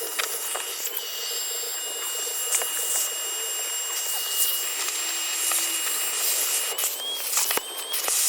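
Numatic canister vacuum cleaner running, a steady high whine over rushing air as it sucks dirt from a car floor, with small clicks of debris going up the hose. The whine's pitch wavers briefly near the end as the nozzle's airflow changes.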